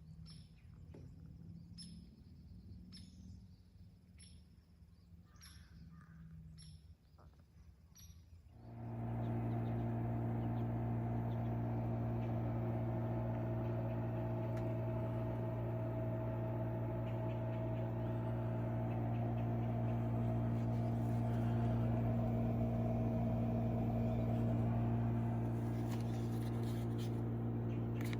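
Birds chirping quietly. About eight seconds in, a portable air conditioner running on heat (Cybertake S2 Pro) switches on and runs with a steady, even hum.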